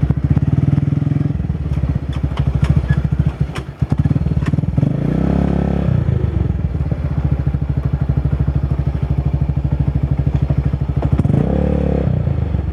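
Motorbike engine idling steadily with an even pulse, while twice, about five seconds in and again near the end, a louder motorbike engine swells up and falls away.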